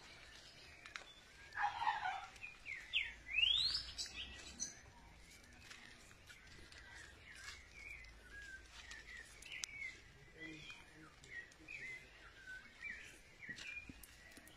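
Birds chirping and calling outdoors. A few loud, quick rising whistles come in the first few seconds, followed by a long run of short, rapid chirps.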